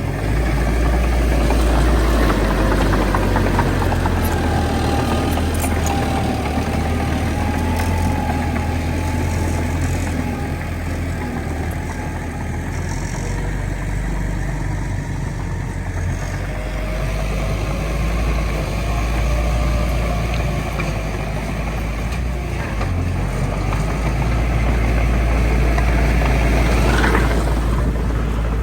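Heavy diesel earthmoving machinery, a bulldozer working with dump trucks, running steadily with a deep rumble and a faint whine that wavers in pitch.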